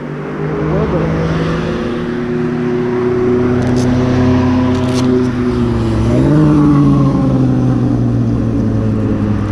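A motor vehicle engine running steadily, growing louder over the first few seconds, with a brief rise in pitch about six seconds in that then slowly eases back down.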